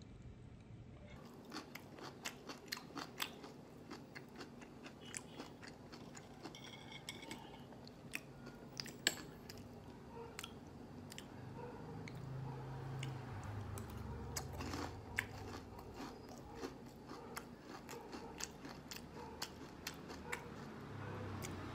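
Close-miked chewing and crunching: a person eating crispy fried pork tenders and side dishes, with many irregular crisp crunches and mouth sounds.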